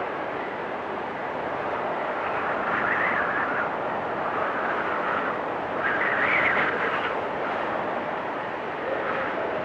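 Storm wind blowing steadily, with whistling gusts that swell about three seconds in and again around six seconds.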